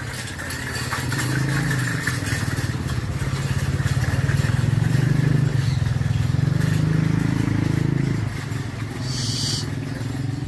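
An engine running steadily with a low drone, growing louder about a second in and easing off after about eight seconds, with a brief hiss near the end.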